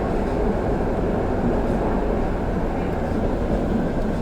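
Steady rumble of a tram running, heard from inside the passenger car.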